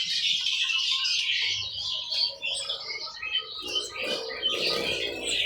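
Many caged songbirds chirping and singing at once, a dense, overlapping chorus of high chirps and trills.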